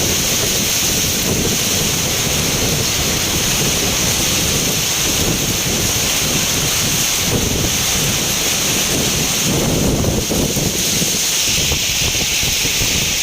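Heavy rain pouring down in a rainstorm, a steady loud hiss, with gusts of wind buffeting the microphone in low rumbles that swell strongest about ten seconds in.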